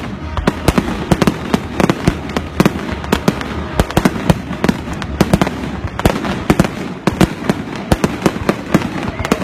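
Fireworks going off: a dense, irregular string of sharp bangs, several a second, over a continuous noisy background.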